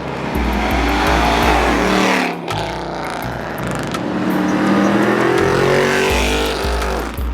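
Car engine revving hard, its pitch rising and falling several times, over a haze of tire noise from a burnout. There is a brief drop about two seconds in.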